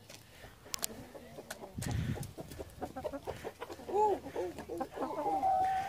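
Backyard hen clucking: a run of short, rising-and-falling clucks, then a longer drawn-out call near the end. A dull thump comes about two seconds in.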